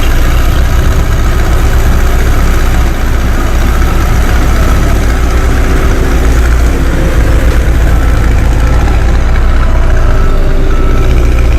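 Hino 300-series dump truck's diesel engine running steadily with a loud, low rumble.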